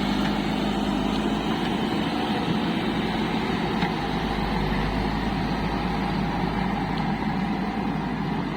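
Heavy diesel engine of a backhoe loader or farm tractor running steadily, an even drone with no revving.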